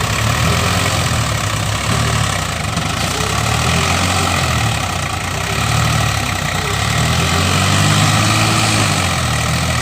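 Tractor engine running steadily, revving up briefly about eight seconds in.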